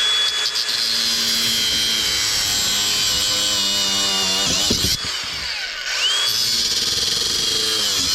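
Power tool running at a steady high whine, its pitch dipping slightly as it works. It stops about five seconds in and starts again about a second later.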